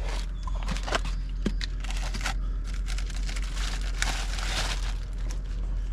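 Packaging of a new wheel hub bearing assembly crinkling and tearing as it is unwrapped, with irregular clicks and handling knocks and a longer rustle about two thirds of the way through.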